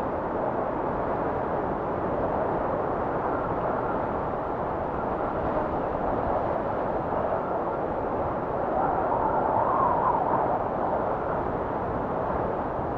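Blizzard wind blowing steadily, a dense rushing noise that swells briefly with a faint whistling gust partway through.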